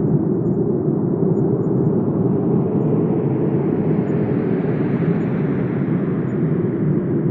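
Wind blowing as a steady low rushing rumble, swelling a little about halfway through and easing off toward the end.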